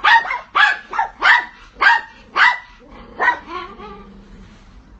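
A dog barking, about six barks in a row at under two a second, the last one weaker and then stopping about three and a half seconds in.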